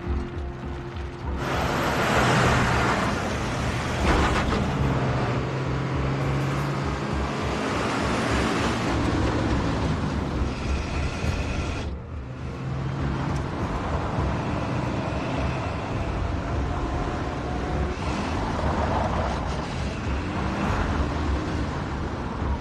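Heavy truck engines running and driving, with a steady low pulsing rumble and noisy swells of road and engine sound; the sound breaks off and changes abruptly about twelve seconds in.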